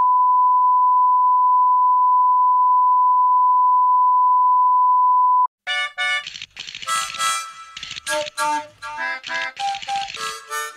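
A steady, loud, pure electronic tone, like a test beep, held for about five and a half seconds and cut off abruptly. After a brief gap, a fast run of short chirpy notes jumps about in pitch.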